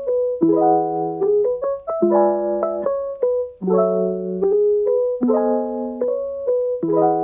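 Solo piano background music: a slow piece with a new chord struck about every one and a half seconds and single melody notes ringing between them.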